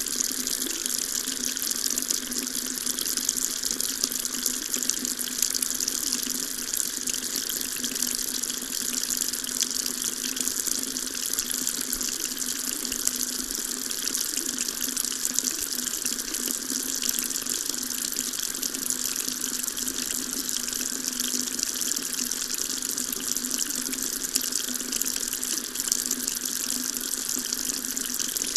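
Water tap running steadily, a constant stream splashing into a sink.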